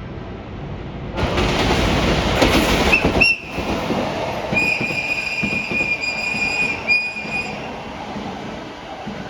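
Train running past with a loud rushing rail noise that starts about a second in and drops off suddenly a couple of seconds later, followed by a thin, high-pitched steady squeal held for about three seconds.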